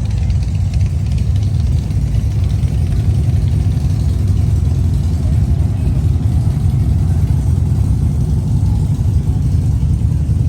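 Motorcycle engines idling together in a steady low rumble as riders line up for a group ride.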